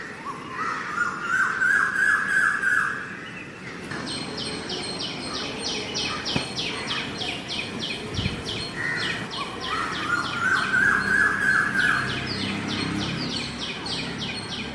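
Birdsong: a short rapid chattering phrase, then a long fast run of high chirps, about five a second, the whole pattern heard twice.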